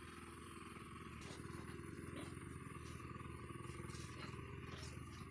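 Pigs grunting: a faint, continuous low chatter of grunts.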